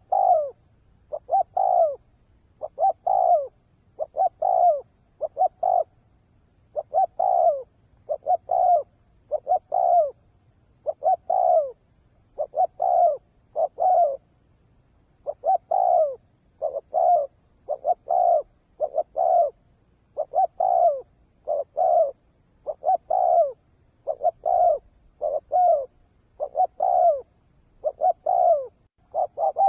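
Spotted dove cooing over and over, each phrase two or three short notes, repeated about every second and a half.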